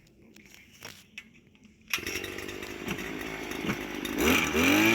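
Small petrol engine of a gas-powered post-hole auger starting about two seconds in and running at idle, then revving up with a rising pitch near the end to a loud steady run.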